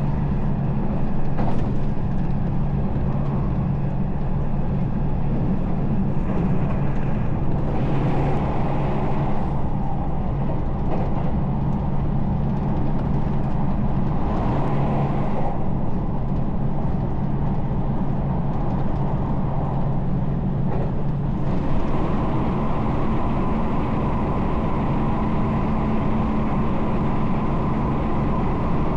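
Electric train running along the line: a steady rumble of wheels on rail under a low motor hum. About 21 seconds in, the sound changes, with more hiss and a thin steady whine added.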